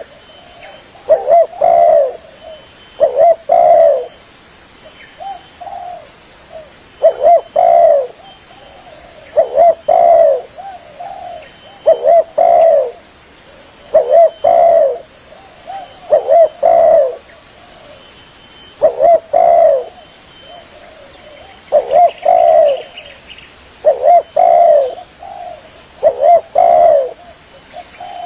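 Spotted dove (tekukur) cooing: short phrases of two or three low coos, repeated about every two seconds.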